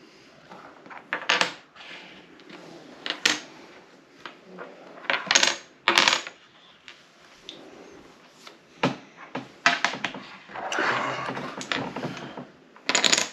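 Small hard game pieces clicking and clacking as they are set down and moved on a tabletop, a dozen or so separate knocks, with a longer rustling stretch about ten to twelve seconds in.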